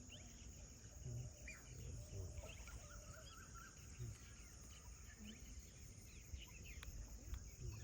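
Faint wildlife ambience: scattered short bird calls and chirps over a steady high insect hum.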